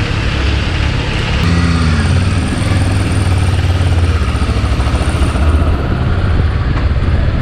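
Kawasaki Versys 650 parallel-twin engine running while riding, with wind rush on the microphone. The engine note swells briefly in pitch about a second and a half in.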